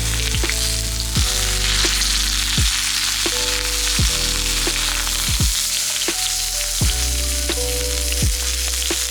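Food frying in beef tallow, sizzling steadily, with background music of repeated notes.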